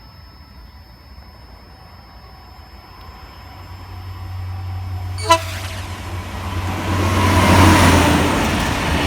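Network Rail multi-purpose vehicle (MPV) passing over a level crossing: its diesel drone grows louder from about three or four seconds in. About five seconds in there is one short, sharp toot of a horn that sounds like an American train horn, then the rising rush of the passing train, loudest near the end.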